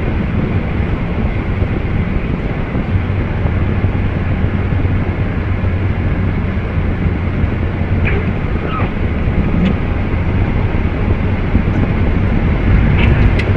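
Steady road and engine noise of a moving car picked up by a dashcam, with a few faint short knocks about eight to ten seconds in.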